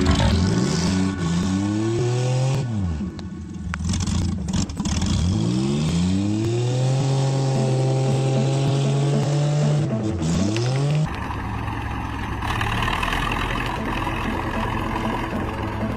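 Car engine accelerating and revving, its pitch rising and falling several times. About eleven seconds in it cuts abruptly to a quieter, steady rumble with hiss.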